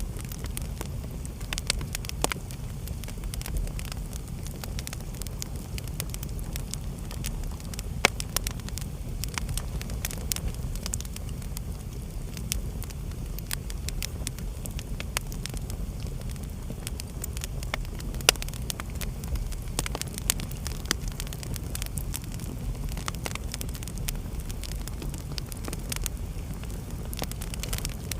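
Wood fire burning in a fireplace: a steady low rumble of flames with frequent irregular crackles and pops, two sharper pops standing out, one about eight seconds in and one about eighteen seconds in.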